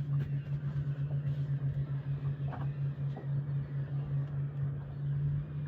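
Boat engine idling, a low steady hum that beats evenly, over the wash of water and wind.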